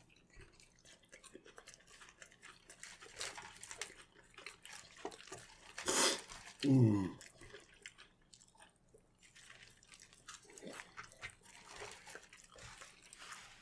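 People chewing and eating at a table: soft chewing and small mouth and food clicks. About six seconds in there is a brief louder rushing noise, then a short hum that falls in pitch.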